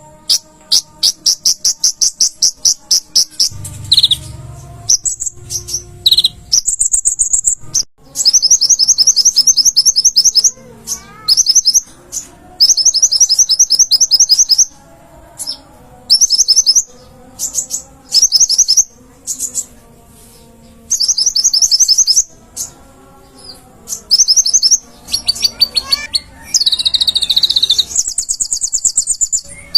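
A kolibri ninja, the sunbird that Indonesian bird keepers call 'konin', singing in fast, high, chattering trills. The trills come in repeated bursts of about a second, with short pauses between them.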